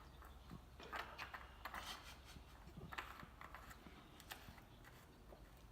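Near silence with faint scattered small clicks and taps.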